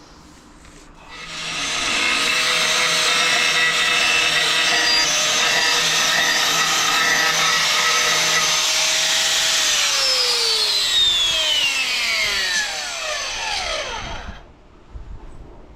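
An electric power tool with a spinning motor is switched on and runs steadily for about eight seconds. It is then switched off and winds down, its pitch falling over several seconds until it stops.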